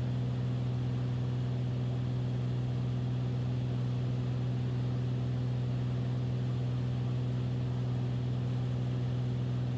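Beechcraft Bonanza's piston engine and propeller droning steadily in the cockpit, one constant low pitch with overtones.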